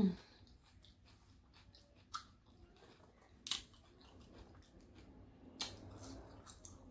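Quiet chewing of fried food with a short hum at the start and three sharp clicks and rustles as pieces are picked from a cardboard takeout box.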